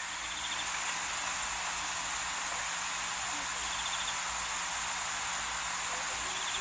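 Night insects, crickets, keeping up a steady high hiss, with a short rapid chirping trill three times, over a faint low rumble.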